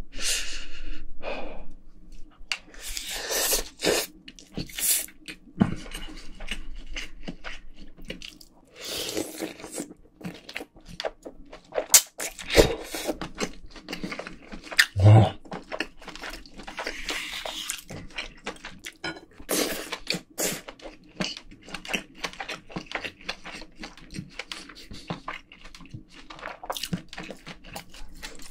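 Close-miked mukbang eating of spicy braised pork ribs: wet chewing and slurping with many irregular mouth clicks, and a few louder slurps in the middle.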